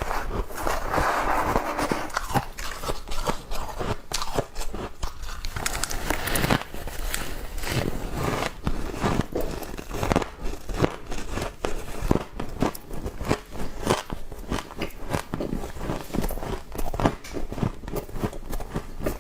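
Mouthfuls of fresh humidifier frost being bitten and chewed close to the microphone: a long run of quick, crisp crunches that hardly pause.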